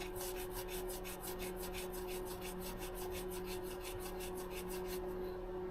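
A ratchet clicking rapidly and evenly, about six or seven clicks a second, as a transmission plug on a 2012 Ford Focus DPS6 is run in with an Allen bit. It stops about five seconds in. A steady low hum runs underneath.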